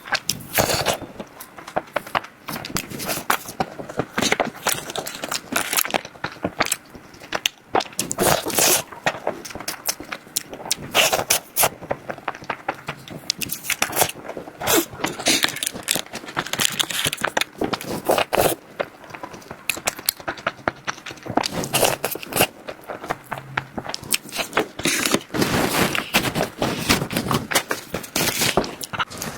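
Close-miked eating of desserts: quick bites, chewing and crackling, with scraping, in dense irregular clusters of small clicks.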